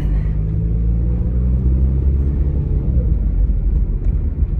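A car engine running with a low, steady rumble. Its hum eases after about two and a half seconds.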